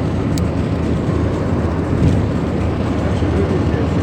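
Steady engine and road noise heard inside a Lada Kalina 2 estate's cabin on the move, a low even rumble.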